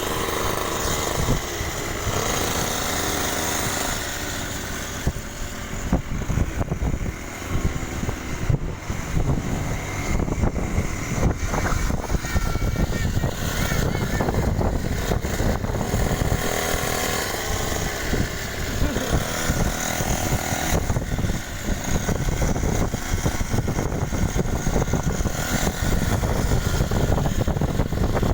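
Mini motocross bike engine running, its pitch rising and falling as the throttle is worked.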